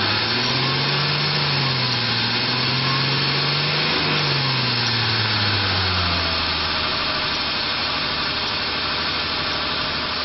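Ford Explorer Sport Trac's 4.0-liter V6 engine running. It is revved up in the first second, held, then eases back down toward idle between about four and six seconds.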